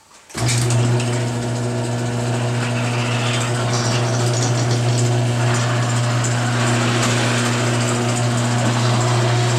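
Garage door opener starting up about a third of a second in and running steadily with a strong hum, the sectional door rolling up on its freshly lubricated rollers. Some creaking remains, which the owner puts down to the hinge joints.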